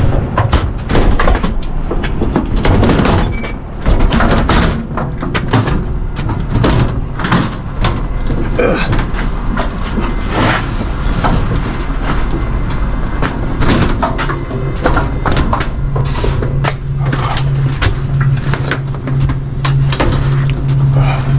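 Repeated knocks, clatters and rattles of cargo and doors being handled at a box truck during a delivery, over a low vehicle rumble. A steady low hum comes in about three-quarters of the way through.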